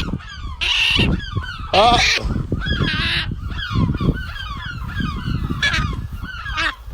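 Seagulls squawking and calling: three loud, harsh squawks in the first three seconds, then quicker, fainter calls repeating through the rest.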